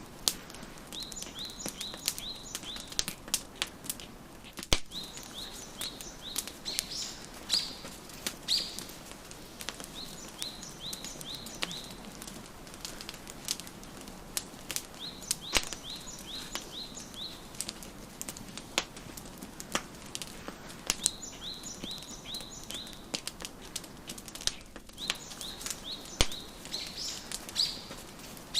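Wood fire crackling in a fireplace, with scattered sharp pops. A songbird sings short runs of quick repeated chirps every few seconds.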